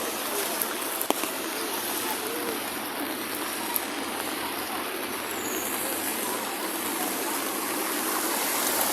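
Steady hiss of heavy rain falling, with a sharp click about a second in.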